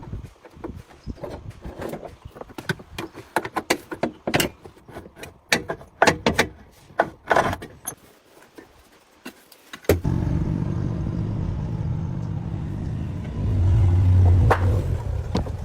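Irregular metallic knocks and clatter of hand work on metal, then an engine suddenly starts running about ten seconds in with a steady low drone that grows louder briefly near the end.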